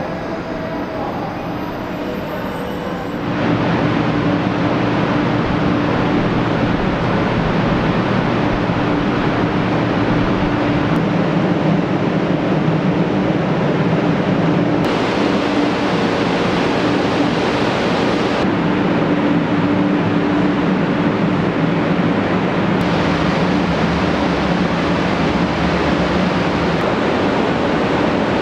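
Hello Kitty 500 series Shinkansen at the platform: a loud, steady rushing noise with a low hum. It starts suddenly about three seconds in and changes in tone a few times.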